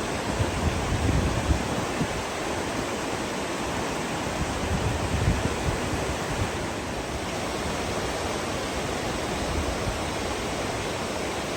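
Heavy rain mixed with hail coming down, a steady dense hiss, with a few low thumps about a second in and again around five seconds.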